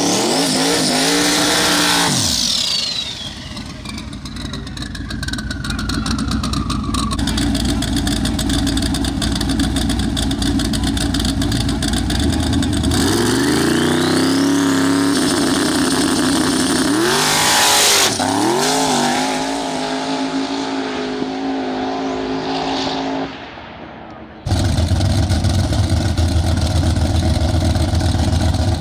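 Drag race car engine revved in short blips between spells of steady running, the sound changing abruptly several times between shots. A high whine falls in pitch a few seconds in.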